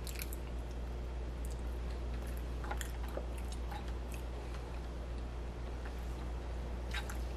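A person chewing a soft bite of sweet potato pie close to the microphone, with a few faint short mouth clicks, over a steady low hum.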